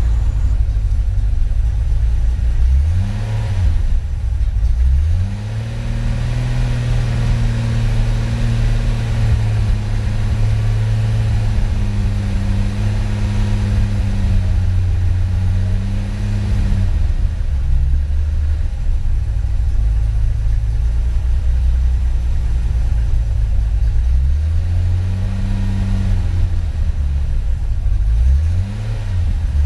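Turbocharged Datsun 240Z engine heard from inside the cabin, on its second run: a brief rev a few seconds in, then held at raised revs for about ten seconds before dropping back to idle. Another short rev follows later, and a few quick throttle blips near the end.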